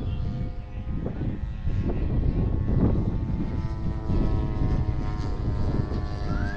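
Large-scale RC Piper Cub model airplane in flight, its engine and propeller droning at a steady pitch.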